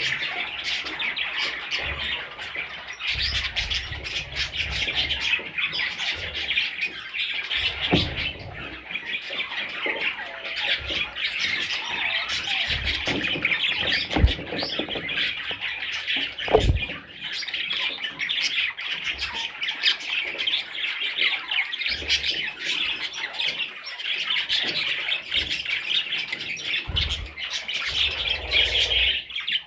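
Budgerigars chattering: a dense, unbroken stream of overlapping chirps and squawks, with a few dull thumps along the way.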